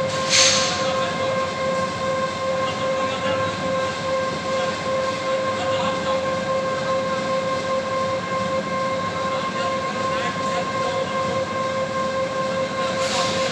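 Industrial furnace equipment running with a steady electrical whine, one constant tone with its overtones, over a continuous machine rumble. A short hiss comes about half a second in and again near the end.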